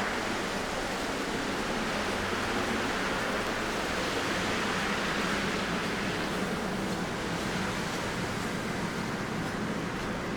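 Steady outdoor street ambience in snow: an even hiss with no distinct events.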